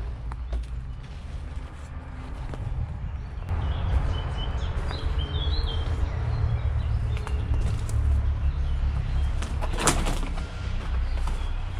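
Small birds chirping in short high calls, a few seconds in and again near the end, over a steady low rumble. One short sharp noise about ten seconds in.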